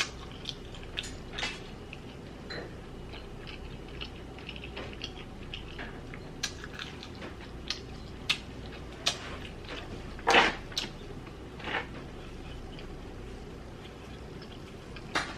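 A person chewing food close to the microphone, with scattered small mouth clicks and smacks and a louder one about ten seconds in.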